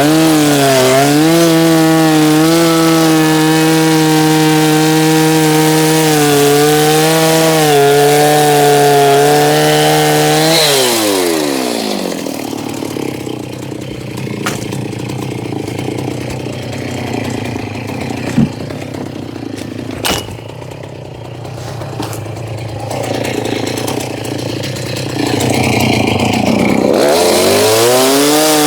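Gas chainsaw with an old, worn chain, held at high revs while cutting into the boat. About ten seconds in the throttle is let off and the engine drops to idle, with a few small knocks. Near the end it revs back up to cutting speed.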